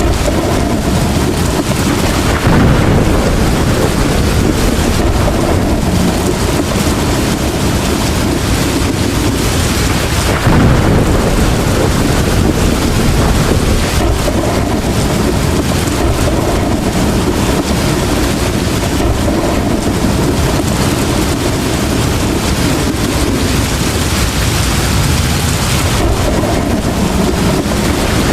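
Heavy rain pouring down, a loud, steady wash of noise with a low rumble underneath.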